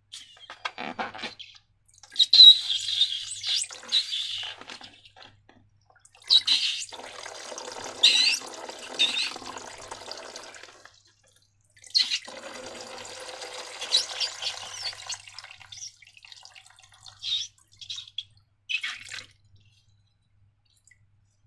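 Wet, liquid slime-making sounds: runny slime squeezed out of a balloon and poured, in three long stretches with short pauses, then a few short wet squelches.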